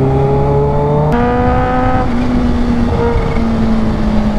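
Supercharged inline-four engine of a first-generation Kawasaki Ninja H2 pulling hard, its note climbing and then changing abruptly with a click about a second in, stepping down again after about two and three seconds, over steady rushing noise.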